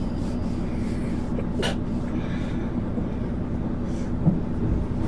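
Interior sound of a 1999 MAN ÜL 353 bus under way: steady engine drone with road rumble, and one brief high squeak about a second and a half in.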